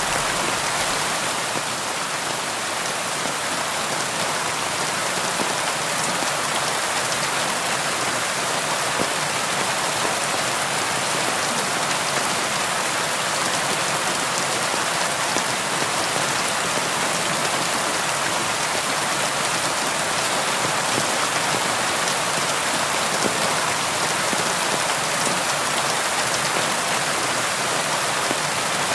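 Steady soft rain falling on a window, an even hiss with scattered single drops ticking.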